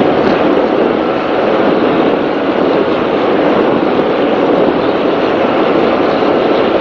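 Racing powerboat running at speed: a loud, steady mix of engine noise with wind and water rushing past the boat.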